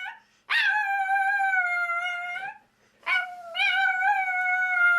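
Pet dog howling: two long, steady howls at one pitch, the first from about half a second in to about two and a half seconds, the second starting about three seconds in with a small waver near its start, after the end of a previous howl right at the beginning.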